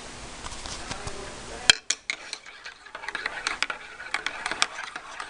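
A metal spoon stirring hot chocolate in a mug, clinking quickly and irregularly against the sides, with one sharp knock shortly before the stirring.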